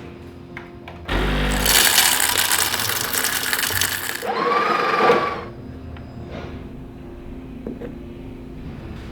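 Small electric kitchen appliance motor, such as a coffee grinder, running loudly for about three seconds, followed by a brief rising whine that holds for about a second.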